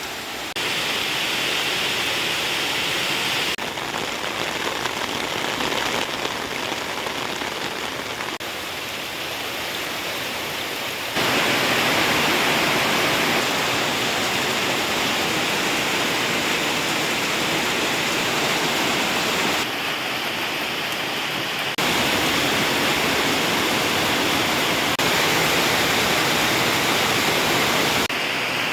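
Heavy rain pouring down in a steady hiss, jumping abruptly louder or softer several times.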